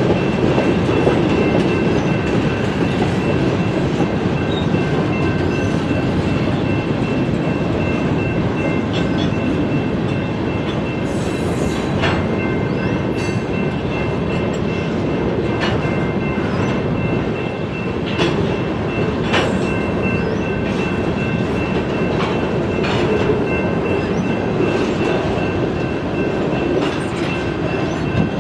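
Freight train cars rolling past in a steady rumble, with sharp clicks of wheels over rail joints every second or so and a faint, steady high ringing from the wheels on the rail.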